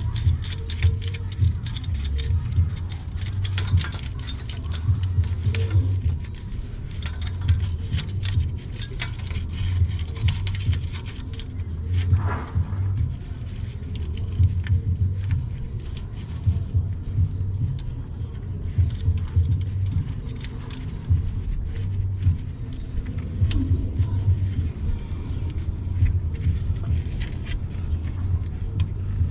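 Repeated light metallic clicking and clinking as muffler clamp nuts are run up on the U-bolts around the exhaust pipe, over a steady low rumble.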